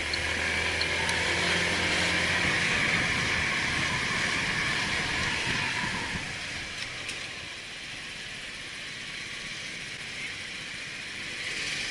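Car driving: steady engine hum and road noise, which ease and quieten after about six seconds.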